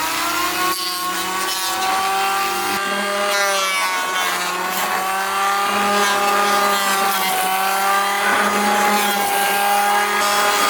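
Electric power tool motor for woodworking spinning up with a rising whine, then running at a steady pitch with slight wavers.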